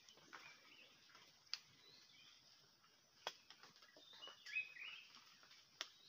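Near silence with faint bird chirps from the tree canopy, including a short run of quick chirps about two-thirds of the way through. A few faint sharp clicks are scattered through it.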